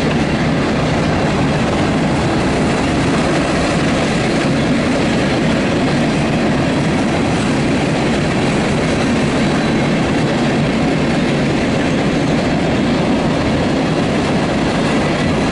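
CSX freight train's cars rolling past at close range, a loud, steady rumble of wheels on rail with clickety-clack over the joints.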